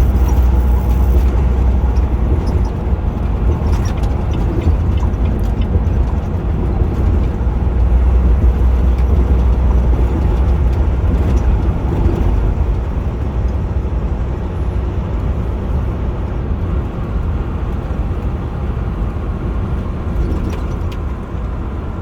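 Semi truck running on the highway, heard from inside the cab: a steady low engine and road rumble with tyre noise.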